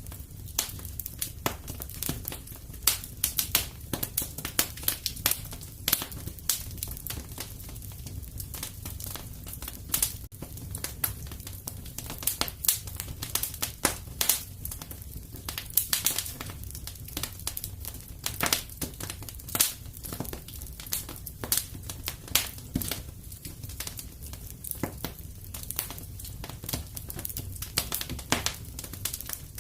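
Wood fire crackling and popping in a fireplace: a steady low rumble under irregular sharp snaps, several a second.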